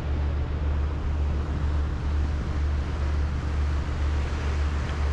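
Passenger ferry underway: a steady low engine drone with an even rushing hiss over it.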